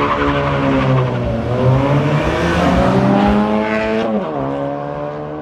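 Performance car engines running and revving, their pitch dipping and rising. The pitch falls sharply about four seconds in, then the engines settle into a steadier note.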